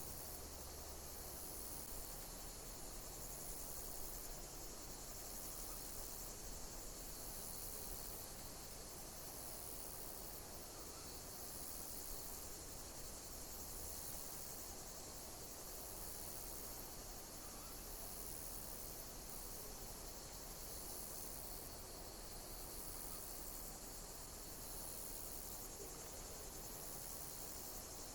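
Insects chirping: a dense, steady high-pitched chorus with a sweeping call repeating about every two seconds, over a low hiss.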